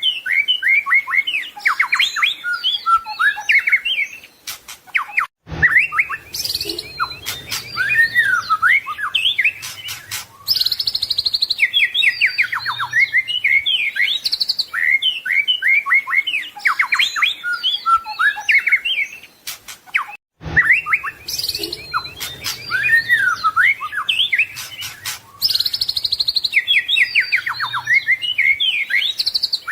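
White-rumped shama singing a loud, varied song of whistled phrases and rapid trills. The same song passage loops, repeating about every 15 seconds after a short break.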